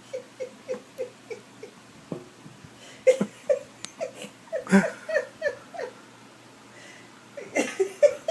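A dog whimpering in short, slightly falling whines, about three a second, in three runs, the middle run louder.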